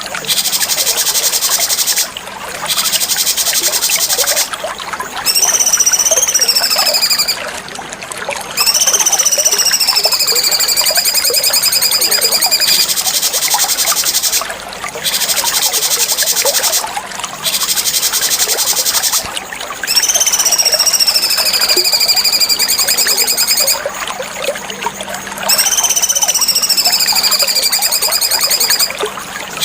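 Cucak cungkok songbird singing a long run of phrases: fast, buzzy chattering trills broken by short pauses, several of them overlaid with clear, drawn-out whistles that slide downward.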